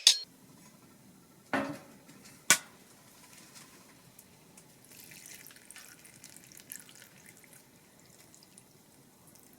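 Food-preparation sounds: a sharp knock or clink at the start and another about two and a half seconds later, with a brief splash-like noise between them, then only faint light clicks.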